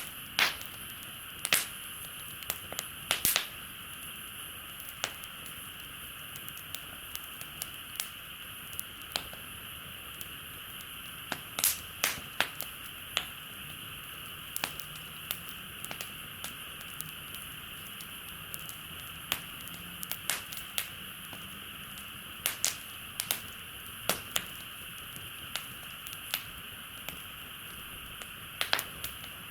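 Wood campfire crackling, with irregular sharp pops and snaps, some in quick clusters, over a steady high-pitched background hiss.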